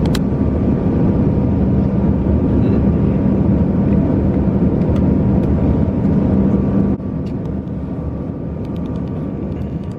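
Steady engine and air drone inside an airliner cabin, with a low hum; it drops in level suddenly about seven seconds in.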